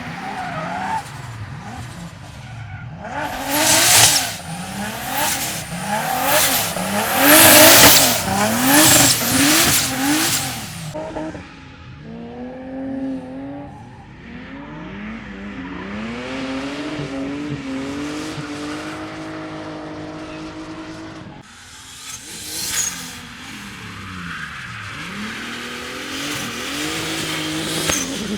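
Drift car sliding through a corner: the engine revs up and down in quick swings while the tyres screech, loudest in the first half. The engine then holds a steadier, rising note for several seconds before revving and tyre squeal pick up again near the end.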